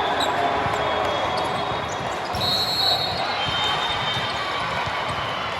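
Indoor gym din: balls thudding on the floor and being struck, with short high squeaks about halfway through and a background murmur of voices.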